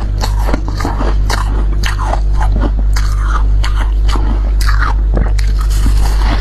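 Close-miked biting and chewing of freezer frost: many sharp, irregular crunches, over a steady low hum.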